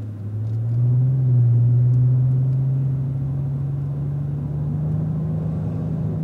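Cadillac ATS-V's twin-turbo 3.6-litre V6 pulling hard out of a corner, heard from inside the cabin. It is a steady engine note that climbs slowly in pitch as the car accelerates, and it is loudest about a second in.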